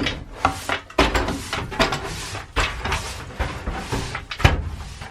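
Irregular scraping, knocking and clattering of hand cleaning work inside a van's bare metal interior. The strokes come unevenly, several a second, with a few sharper knocks among them.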